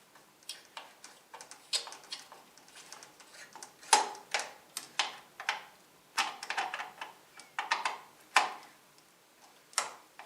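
Irregular clicks and knocks of hard plastic and metal parts being handled and tapped inside a desktop computer case, with the sharpest knocks about four and eight seconds in.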